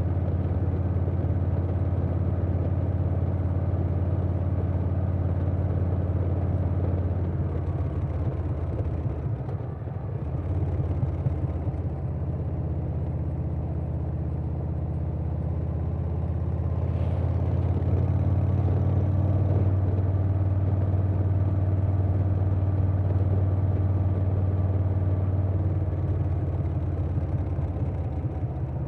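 2020 Harley-Davidson Softail Standard's Milwaukee-Eight V-twin running at road speed through a Vance & Hines Big Radius 2-2 exhaust. The note drops off briefly about ten seconds in, then picks up and runs a little louder through the second half.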